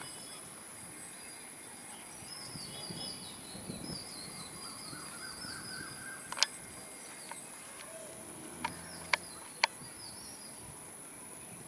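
Outdoor ambience: small birds chirping in quick repeated runs over a steady, thin, high-pitched whine, with four sharp clicks in the second half, the first one the loudest.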